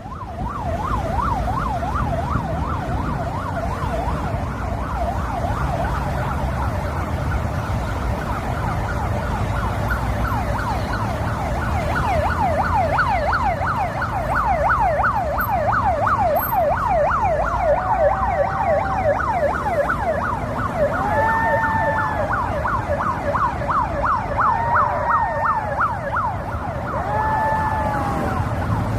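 Ambulance siren sounding in a rapid up-and-down yelp. From about two-thirds of the way in, a dog howls along with it in several long, arching howls a few seconds apart.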